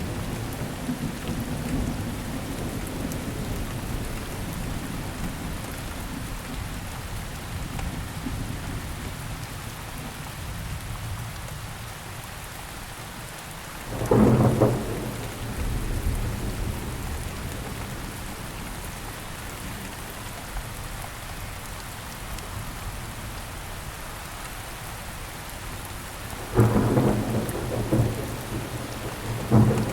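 Steady rain falling, with a low rumble of thunder under it. Sudden loud thunderclaps come about halfway through, then three more close together near the end.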